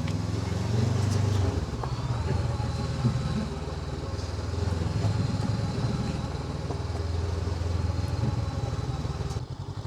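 Honda NX500's parallel-twin engine running steadily under way, with road and wind noise over it. The sound drops in level about half a second before the end.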